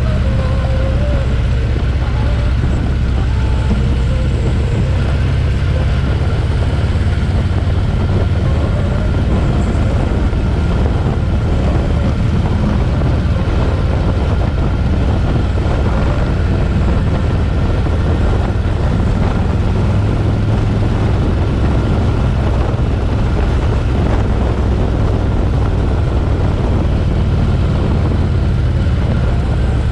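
Harley-Davidson V-twin motorcycle running steadily on the move, its low exhaust note holding even with no big changes in engine speed.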